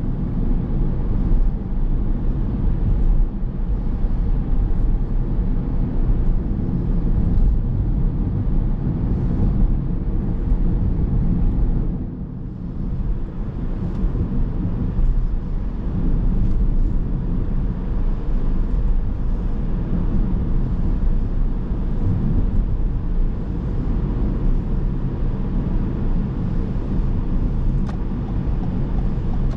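A car driving along: a steady low rumble of road and engine noise, briefly quieter about twelve seconds in.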